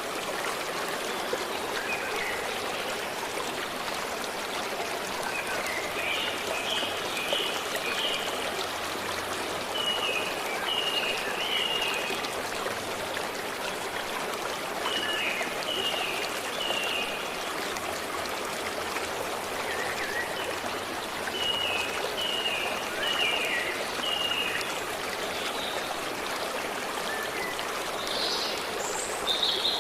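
A stream flowing steadily, with a small songbird singing short phrases of three or four quick repeated chirps every few seconds. A different, higher call comes near the end.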